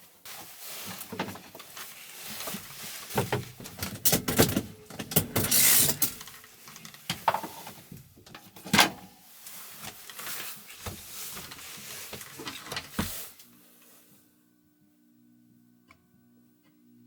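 Rustling, knocks and clatter of things being handled in a small room, loudest around four to six seconds in and again near nine seconds. The handling stops about thirteen seconds in, leaving a faint steady low hum.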